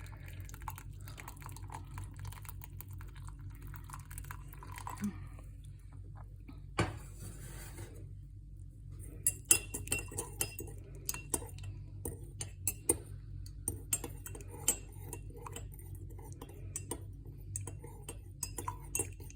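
A spoon clinking against a cup as sugar is stirred into coffee decoction: faint scraping at first, then many quick, light clinks through the second half.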